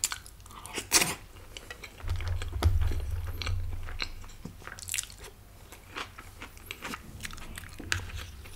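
Close-miked eating: crunchy bites and chewing with many short, sharp mouth clicks and crackles. A low rumble runs under it from about two seconds in.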